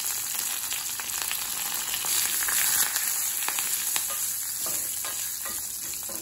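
Tempering spices, curry leaves, garlic and dried red chillies sizzling in hot ghee in a stainless steel pan, stirred with a spatula. A few sharp clicks come in the second half.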